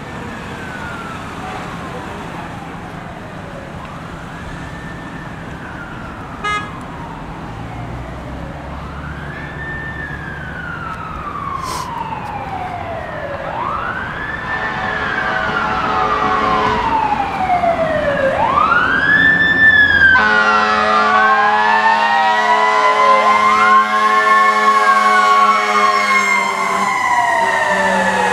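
Emergency vehicle sirens wailing, rising and falling in pitch and growing louder as they approach. About two-thirds of the way in, a second wailing siren and a steady horn-like tone join, so the sirens overlap.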